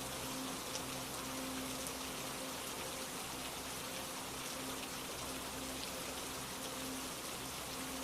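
Steady rain falling, an even patter of raindrops.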